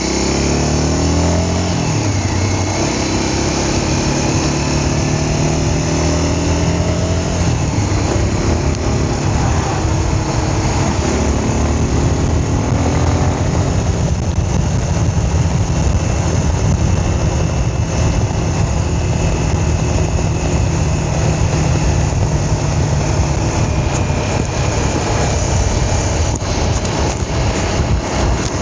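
Motorcycle engine running under way, its pitch dropping near the start and then climbing and easing with the throttle, over a steady rushing noise.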